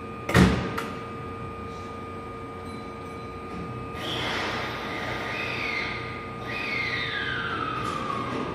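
Keihan 8000 series electric train at a platform, about to depart: a single sharp knock about half a second in, over a steady hum. From about four seconds comes a hiss with whining tones that slide downward in pitch, twice.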